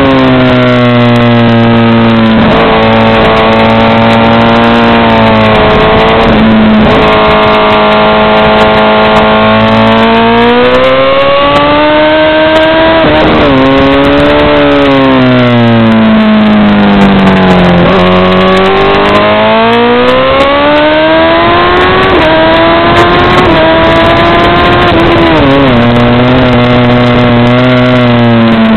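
Honda CBR1000RR (SC57) inline-four engine at racing revs, heard from the bike itself. Its pitch rises under acceleration and falls on the brakes, with sudden jumps at the gear changes several times.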